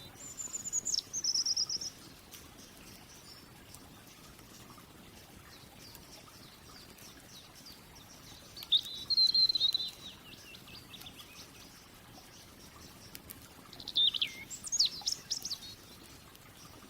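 A songbird singing three short high-pitched phrases of quick gliding and trilled notes: one right at the start, one midway and one near the end, over a faint steady background hiss.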